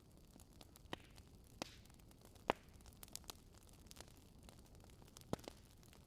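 Wood fire in a fireplace crackling: scattered sharp pops over a faint hiss, the loudest about two and a half seconds in.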